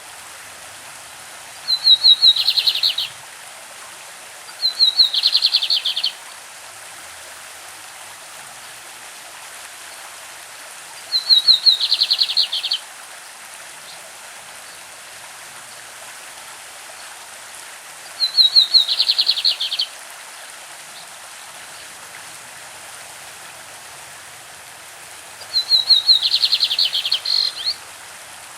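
Lined seedeater (bigodinho) singing its classic song: five phrases of rapid repeated notes, each about a second and a half long, spaced several seconds apart. A steady rush of a stream runs underneath.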